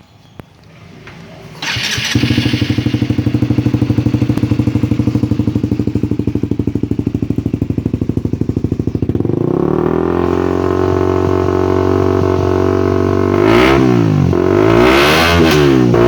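Motorcycle fitted with a Yoshimura aftermarket exhaust starting up about two seconds in and settling into a lumpy, pulsing idle. The idle picks up about halfway through, then the throttle is blipped twice near the end.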